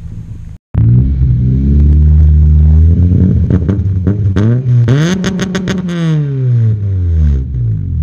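Honda Civic's swapped K24 four-cylinder engine idling, then revved once through its exhaust. The revs climb from about three seconds in, peak a couple of seconds later, and drop back to idle near the end.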